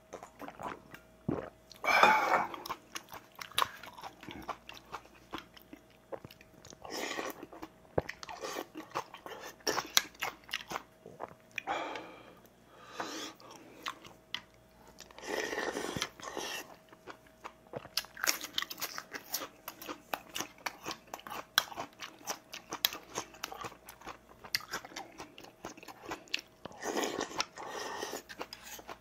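Close-up mukbang eating sounds: chewing, crunching and mouth noises as a man eats rice, soup and seasoned vegetable side dishes. Many small sharp clicks run through it, with several louder mouthfuls of about a second each, the loudest about two seconds in.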